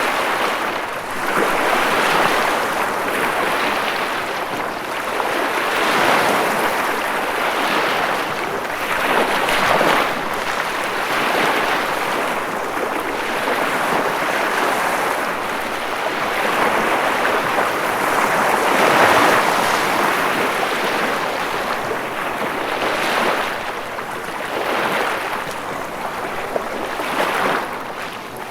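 Ocean waves washing and breaking in a continuous surf, the rush of water swelling and easing every two to three seconds.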